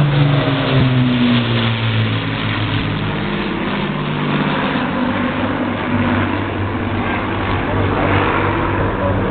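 Rolls-Royce Merlin piston engines of a Lancaster, Hurricane and Spitfire flying past in formation. The loud, deep drone drops in pitch during the first couple of seconds as the aircraft pass, then carries on steadily at the lower pitch.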